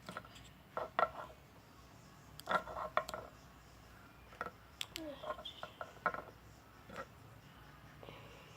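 Scattered light clicks and knocks of small containers being handled and set down among a small fridge's shelves, about a handful over several seconds.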